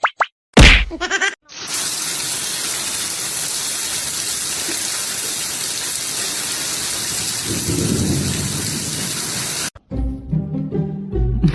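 A loud sudden crash, then a steady, even hiss, like heavy rain, for about eight seconds that cuts off sharply. Music starts near the end.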